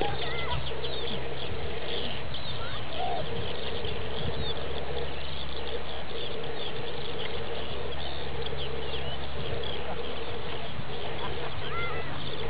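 Many songbirds chirping and singing, with a steady low hum underneath.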